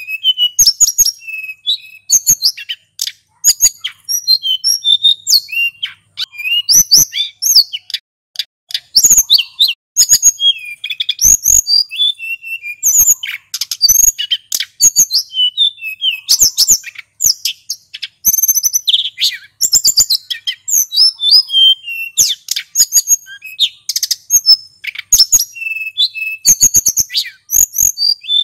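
Male sulingan gunung singing continuously: rapid, high-pitched runs of chirps, whistles and trills with only brief pauses.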